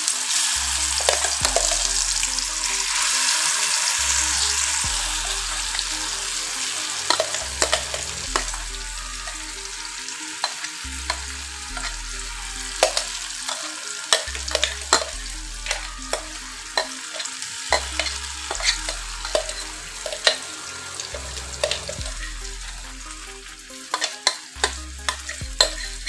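Ridge gourd peel paste frying in hot mustard oil in an iron kadai. It sizzles loudest in the first few seconds after it hits the oil, then settles to a softer fry. A spatula scrapes and clacks against the pan throughout, more often near the end.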